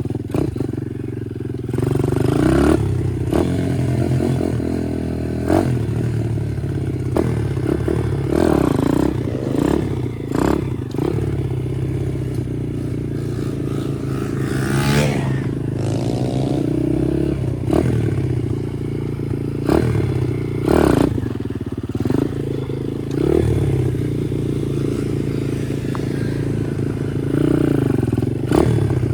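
Chinese pit bike's small single-cylinder engine running while ridden, the revs rising and falling with the throttle and a sharp rising rev about halfway through, with repeated clattering knocks.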